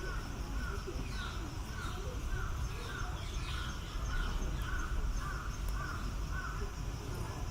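A series of about ten evenly spaced animal calls, roughly one every two-thirds of a second, stopping shortly before the end.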